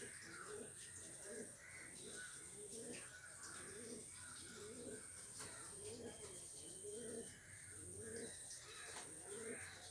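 Faint bird calls: short low calls repeating about twice a second, with a thin steady high whine underneath.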